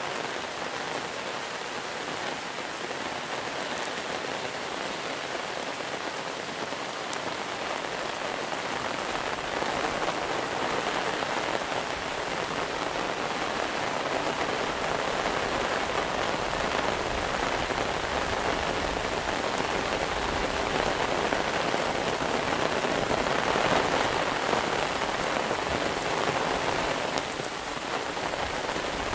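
Monsoon rain falling steadily, building gradually to its heaviest a little past the middle, then easing briefly near the end.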